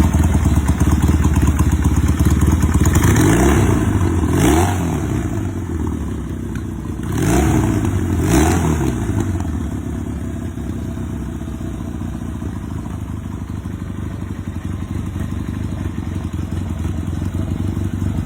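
1973 Yamaha TX-650's parallel-twin engine running at idle, blipped up in revs twice and dropping back each time, then idling on.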